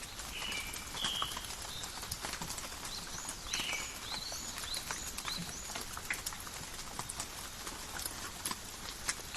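Steady light rain in a forest, with many individual drops ticking close by. Short high chirps from small birds come through the rain now and then, most of them in the first four seconds.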